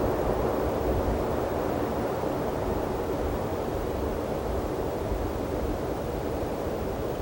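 Wind blowing over the binaural microphones in open desert: a steady low rushing with a fluttering rumble at the bottom, easing slightly over a few seconds.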